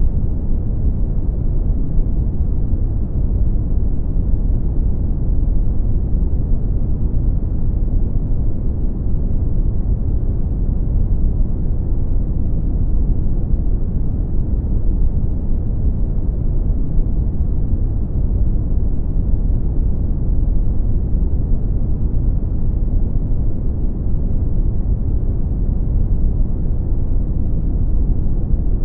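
Brown noise: a steady, deep rumbling hiss, strongest in the bass and falling away toward the treble, with no changes or events.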